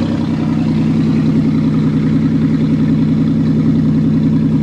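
Pontiac car engine idling steadily with a fast, even pulse, just after a cold start at about 3 °C without a choke, having sat unused for months.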